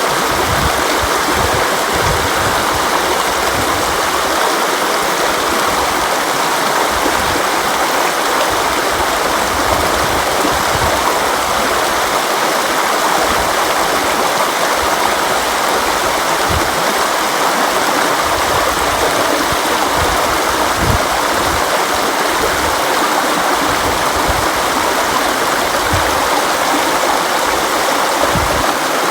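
Flowing river water rushing steadily, an even white-noise wash with occasional low gurgles.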